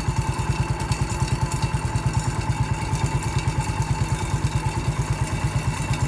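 Massey Ferguson 14 garden tractor's engine running steadily with a quick, even beat as it drives along the trail.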